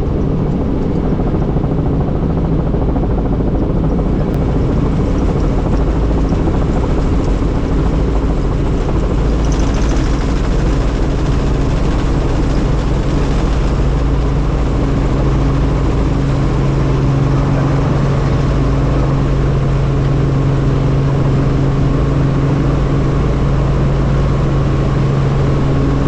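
Helicopter in flight: the engine and rotor make a steady, loud droning hum that holds an even pitch.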